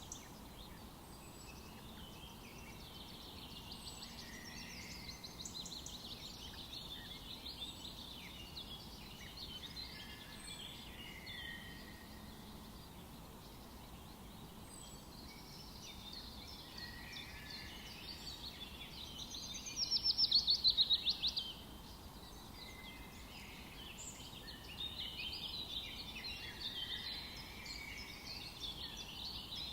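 Several wild birds singing and chirping together, overlapping short songs and calls. About two-thirds of the way through, one bird gives a louder, rapid trill of fast repeated notes lasting about two seconds.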